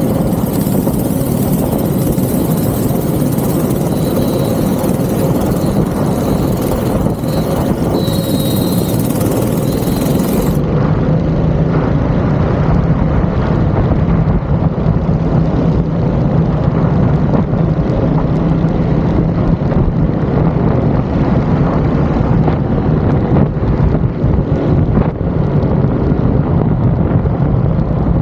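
Go-kart engine running steadily at racing speed, a loud, continuous drone that holds its pitch.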